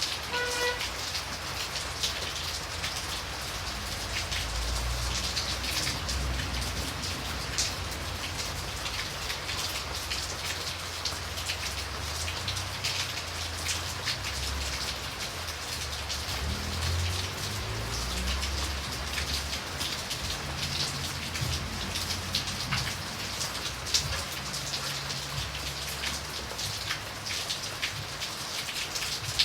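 Steady rain, with many individual drops heard as sharp ticks on a surface and an uneven low rumble underneath. A short pitched note sounds just after the start.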